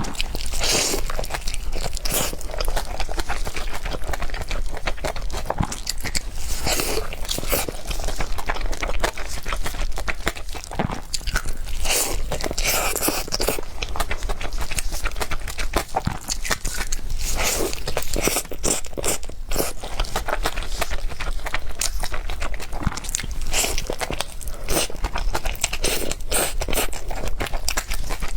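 A person eating close to the microphone: a steady run of bites and chewing, made up of many quick sharp clicks and crunches.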